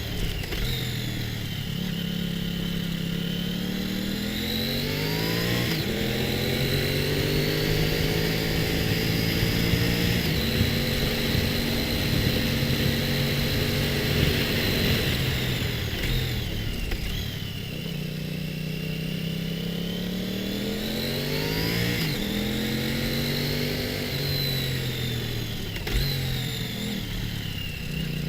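Motorcycle engine under way, its pitch climbing with the revs and stepping down at gear changes, holding steady at cruise, then easing off and pulling up through the gears again.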